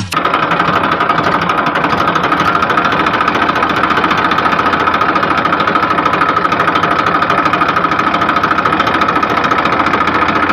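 Small mini tractor engine running steadily with a fast, even chugging.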